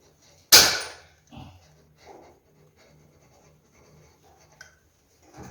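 A single sharp crack about half a second in, followed by faint handling and rustling noises.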